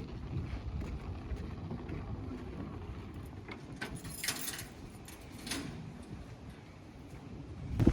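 Wind rumbling on the microphone, with a few short clicks about halfway through.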